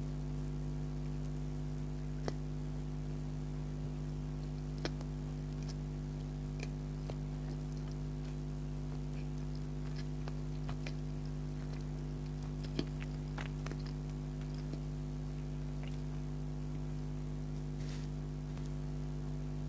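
Quiet eating of soft donut, with scattered sharp mouth clicks and smacks, about 2, 5 and 13 seconds in, over a steady electrical hum.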